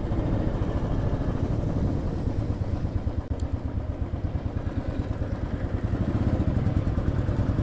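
Royal Enfield single-cylinder motorcycle engine running steadily as the bike is ridden along, with a fast, even exhaust beat.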